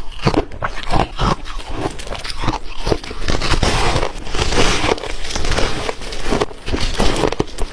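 Ice being bitten and chewed close to the microphone: an irregular run of sharp crunches and crackles, densest in the middle.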